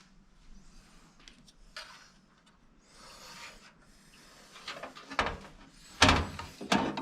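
Hands working on computer parts and the PC case: faint rubbing and small ticks, then a cluster of loud knocks and clatters from about five seconds in.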